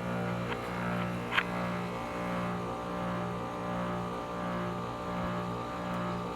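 1999 Rheem 4-ton heat pump's compressor humming steadily in its defrost cycle, the low hum pulsing in a slow beat about every two-thirds of a second. Two faint clicks come about half a second and a second and a half in.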